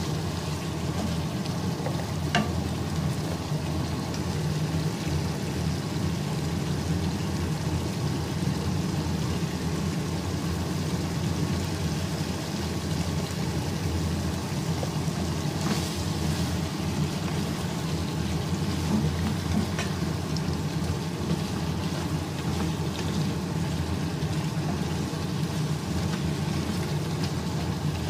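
Mutton karahi sizzling in a wok over a gas flame, over a steady low rumble, with a few clicks of a wooden spatula against the pan.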